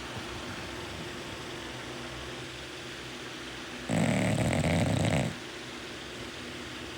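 Sleeping bulldog snoring: quiet, steady breathing, then one loud snore about four seconds in that lasts about a second and a half.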